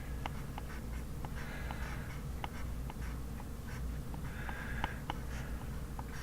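Pencil writing on paper: short scratchy strokes about every three seconds with small taps of the lead between them, over a steady low hum.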